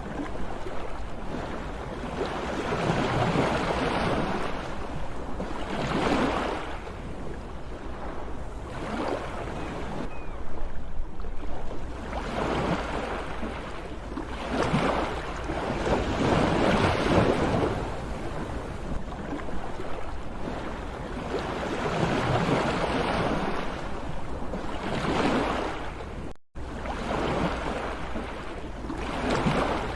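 Ocean waves breaking and washing in, swelling and fading every three to four seconds, with a split-second gap near the end.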